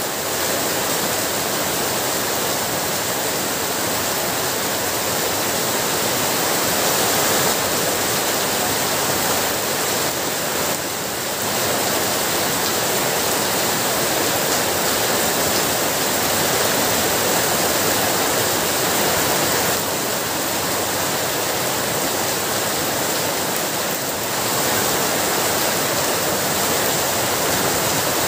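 Heavy rain falling steadily: a dense, even hiss of downpour with no breaks.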